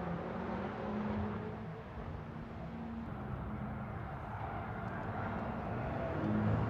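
Car engine running while driving, with road and wind noise; the engine note eases off about two seconds in and builds again near the end.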